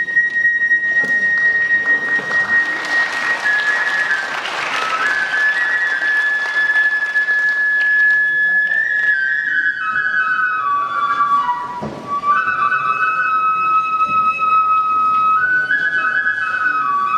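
Kagura music led by a transverse bamboo flute: a long held high note, then a melody stepping downward. Audience applause rises under it for the first few seconds.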